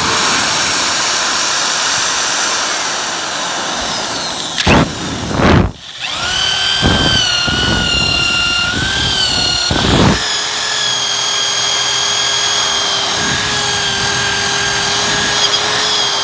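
Power drill with a scrubbing attachment running against car metal, scrubbing off paint and grime down to bare, shiny metal for a good ground connection. The steady motor whine breaks off briefly about five seconds in and again near ten seconds, then carries on.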